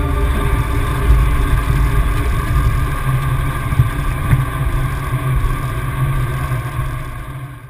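Steady low rumble with a rushing noise over it, fading away near the end.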